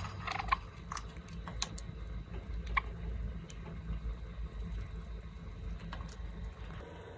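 Pet small birds: scattered light clicks and taps, with a few short chirps in the first second and another about three seconds in, over a steady low hum.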